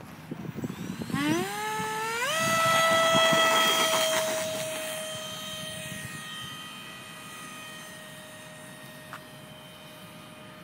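Electric ducted fan of an RC F-35 model spooling up about a second in, its whine rising quickly in pitch and then holding a steady high whine at full throttle, growing fainter over the following seconds while the pitch stays the same. A few handling clicks come before it starts.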